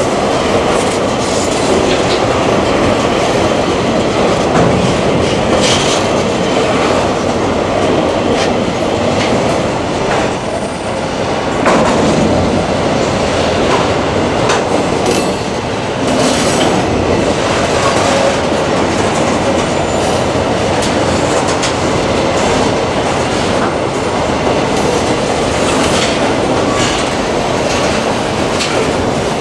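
Freight train of covered hopper wagons rolling past close by: a steady rumble and clatter of wheels over the rails, with sharp knocks now and then.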